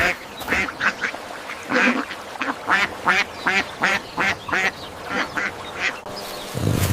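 Duck quacking, a quick run of short quacks, about two or three a second. Near the end a louder, deeper sound cuts in.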